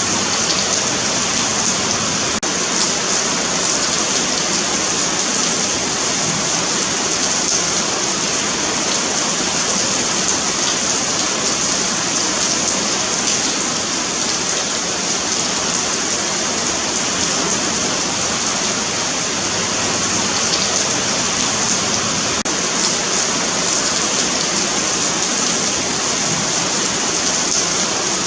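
Steady rain falling on a paved sidewalk, an even hiss of many drops.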